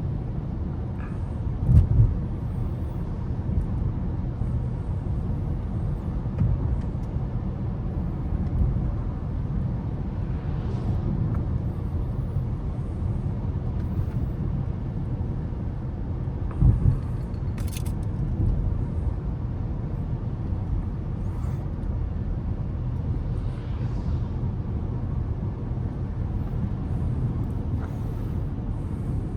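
Car driving in city traffic: a steady low rumble of engine and road noise, with two brief thumps, about two seconds in and again past the middle, and a short sharp click soon after the second.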